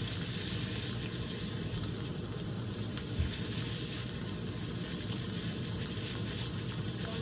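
Smash-burger patties sizzling steadily in a hot pan, their bottoms crisping, with one low knock about three seconds in.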